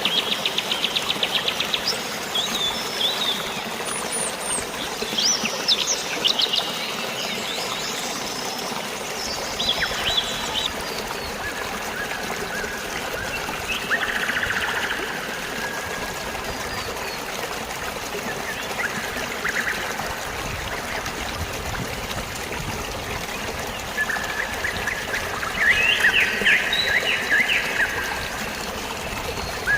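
Steady trickling, flowing water with birds chirping and calling over it: a fast trill in the first second, quick chirps through the first half, and longer whistled notes in the middle and again near the end.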